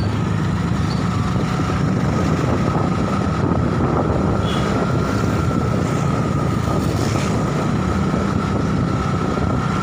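Strong wind buffeting the microphone over a steady low rumble, with a faint steady whine held throughout.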